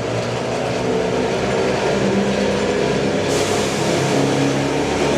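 Sangi Railway cement freight train running close by: a loud, steady rumble of wagons on the rails with a shifting mechanical hum, growing louder in the first second and getting brighter about three seconds in.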